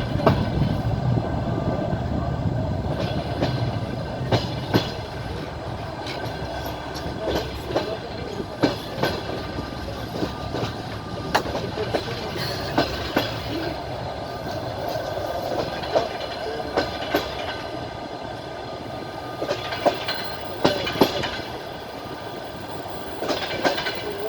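Passenger train rolling along the track, heard from on board: a steady rolling rumble with the wheels knocking over the rail joints every few seconds, often in quick pairs.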